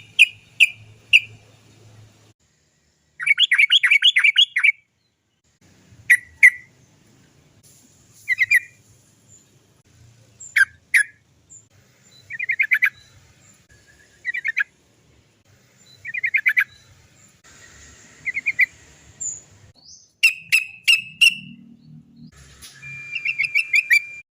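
Yellow-vented bulbul (trucukan) singing vigorously in bursts of rapid 'cok cok cok' notes separated by short pauses, with one longer rolling phrase about three seconds in.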